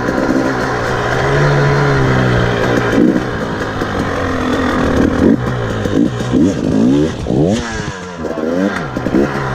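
KTM 300 XC-W two-stroke dirt bike engine being ridden, revving up and dropping back several times in quick succession as the throttle is worked.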